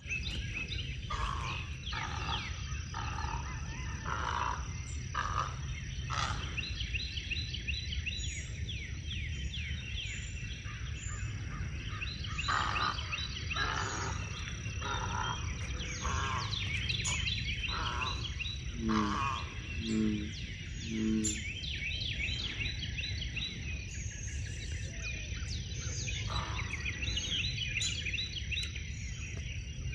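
Great egret giving harsh, nasal croaks that sound like someone with a really bad sinus condition. The croaks come in runs of about one a second, a bout a few seconds in and another around the middle, over steady high chirping.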